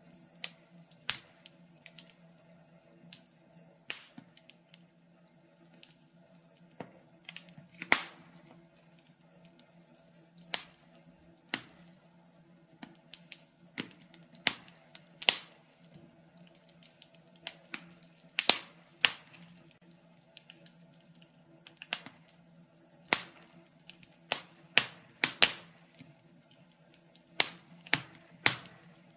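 Wood fire crackling in a fireplace: irregular sharp pops and snaps, some much louder than others, over a faint low hum.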